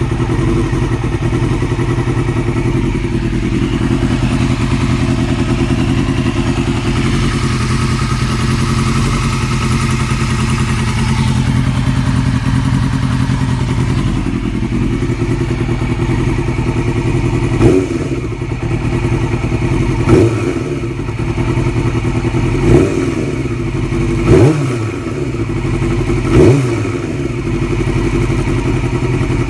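2002 Yamaha R6's inline-four engine idling steadily, then blipped five times in quick short revs about every two seconds in the second half. Through it runs a ticking from the cam area, which the owner hopes is not the valves.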